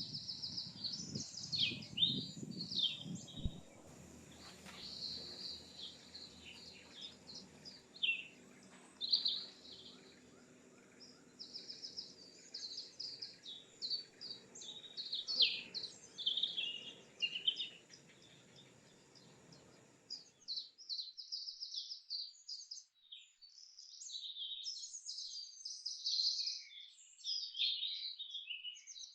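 Birds chirping and calling, many short quick notes overlapping. A low background rumble under them cuts off suddenly about two-thirds of the way in, leaving only the birdsong.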